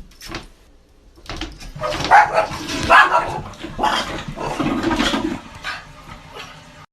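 Dog barking in a run of calls, loudest from about two to five seconds in.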